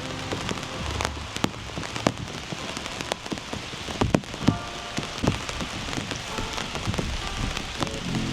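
Steady rain falling, with many irregular individual drops striking close by.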